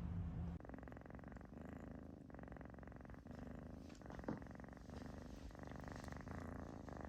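A domestic cat purring close to the microphone: a steady, fine-grained rumble that breaks off briefly about once a second as the cat breathes. A low hum stops about half a second in, and there is one small click partway through.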